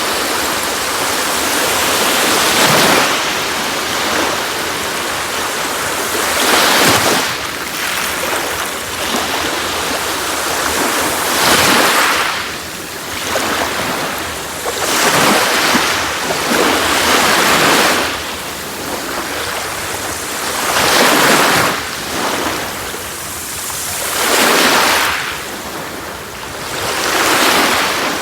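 Sea waves breaking and washing on a beach, a broad hiss of surf that swells and falls about every three to four seconds.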